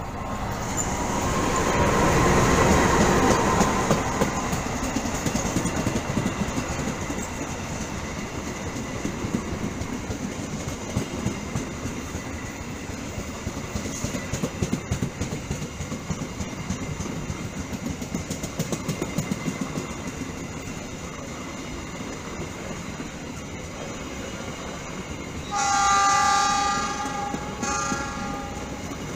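A CC 206 diesel-electric locomotive passes close by, loudest in the first few seconds. Its passenger coaches follow with a steady running noise and the repeated clicking of wheels over rail joints. Near the end a train horn sounds for about two and a half seconds.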